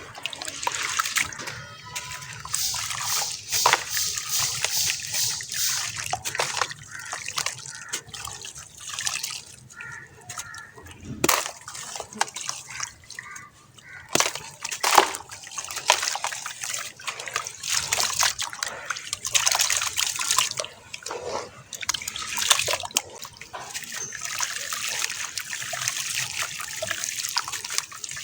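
Dry sand-cement shapes crumbling in water: an uneven fizzing crackle with sloshing and drips, broken by a few louder splashes.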